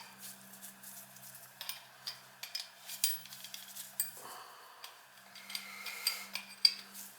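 Irregular metallic clicks and clinks of tools working on a Beckett oil burner, over a faint steady hum that drops out briefly a little past halfway.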